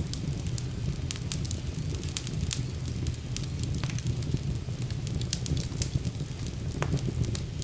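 Wood fire burning in a fireplace: a steady low rumble of flames with frequent, irregular crackles and pops of burning logs.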